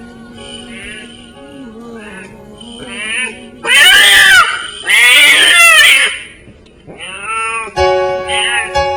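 Cat mewing repeatedly, with two long, loud, rising-and-falling cries in the middle and shorter, softer mews before and after. Background music plays under it, with a piano coming in near the end.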